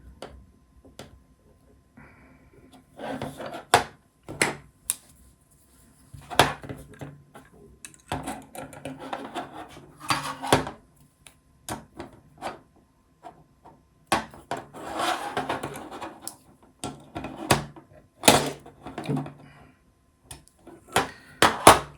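Hand-tightening the small screws that fasten a line-sensor board to a 3D-printed plastic robot plate: irregular scraping and rubbing of fasteners and parts, with scattered clicks and knocks.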